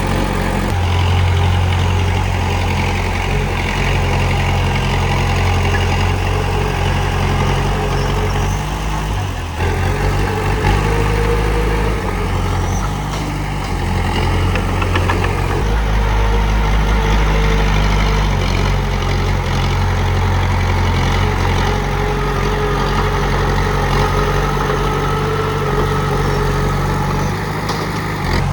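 Komatsu D31P crawler bulldozer's diesel engine running steadily, a strong low hum with a faint wavering whine above it, dipping briefly about a third of the way in.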